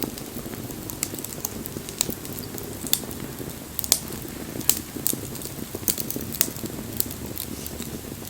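Wood bonfire burning: a steady low rush of flame with frequent sharp crackles and pops, the loudest about four seconds in.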